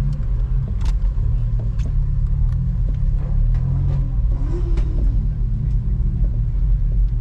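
A steady low engine rumble heard from inside a car, with another car's engine being revved nearby, its pitch rising and falling a few seconds in. A few light clicks are scattered through it.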